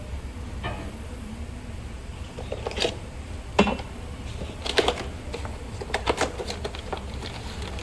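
Irregular clanks and clicks of metal tools and parts being handled during brake work, the sharpest about three and a half seconds in, over a steady low shop hum.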